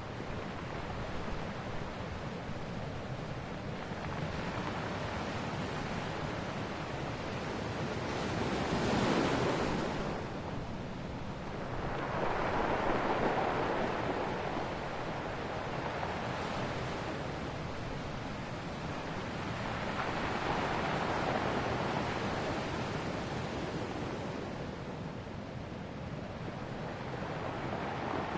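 Ocean waves breaking and washing on a shore. The surf swells and recedes in slow surges, the loudest about a third of the way in, with further swells near the middle and about three quarters through.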